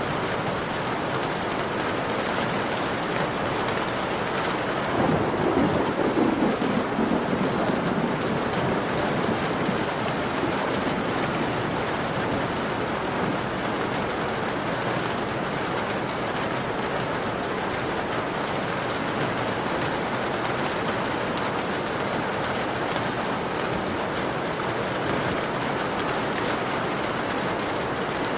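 Steady rain falling on a window pane, with a roll of thunder about five seconds in that swells and fades over a few seconds.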